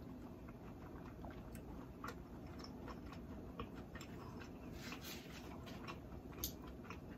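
Soft mouth sounds of a person chewing and swallowing cheesy grits, with scattered small clicks through it as a metal spoon scoops in a glass bowl.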